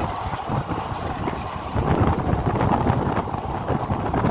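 Passenger train coach running at speed, heard from its open doorway: a steady rumble of wheels on the track with rapid clatter, and wind buffeting the microphone.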